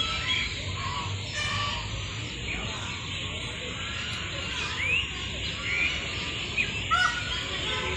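Birds chirping: scattered short, rising calls over a steady low background noise.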